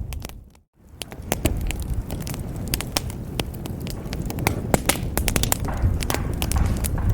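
Wood fire in a fireplace crackling and popping, with sharp snaps over a low rumble of flames. Within the first second the sound fades briefly to silence, then fades back in.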